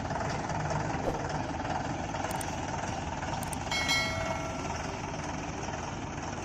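Heavy diesel machinery engine running steadily, with a brief high-pitched squeal about four seconds in.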